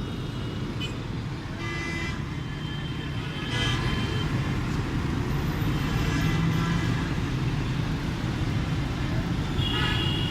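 Steady low engine drone amid road traffic, with several short vehicle horn toots.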